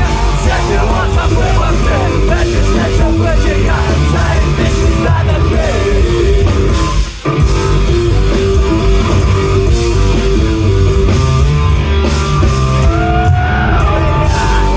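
Rock band playing live at full volume, with guitar, bass and drums, in an instrumental stretch of the song. The music breaks off for a moment about seven seconds in, then comes straight back in.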